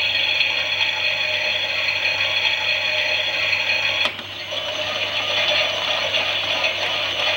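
Toy Klein Miele 6941 WT washing machine running a wash: its small electric motor and plastic gears whirr steadily as the drum turns. About four seconds in there is a click, the whirr drops briefly and then picks up again.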